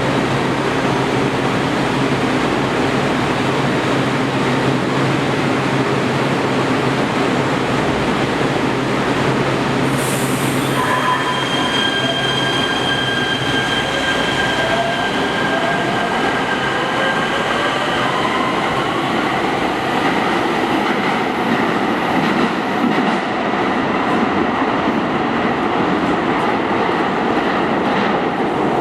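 Metro rail train running through an underground station: a loud, steady rumble of wheels on rail. From about ten seconds in, high steady whining tones join, followed by slowly rising whines.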